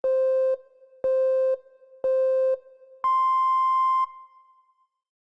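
Electronic countdown beeps: three short, lower beeps a second apart, then one longer, higher beep, the start-signal pattern of a race countdown.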